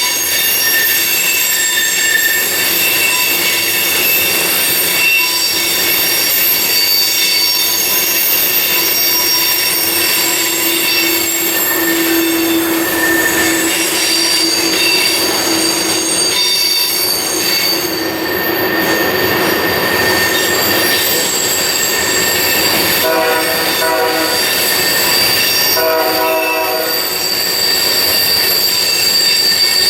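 Freight train wheels squealing against the rail on a tight curve: many steady, high-pitched whistling tones that shift as the cars roll past. About three quarters through, two short horn-like blasts sound through the squeal.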